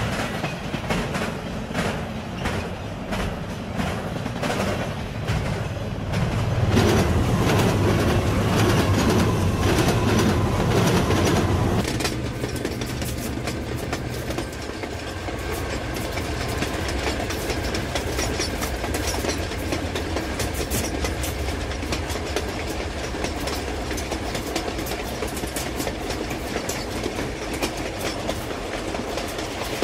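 Dubbed recording of a real train rolling past, its wheels clicking regularly over rail joints. A louder, deeper stretch comes about 7 seconds in and ends abruptly about 12 seconds in, and the steady clicking then carries on.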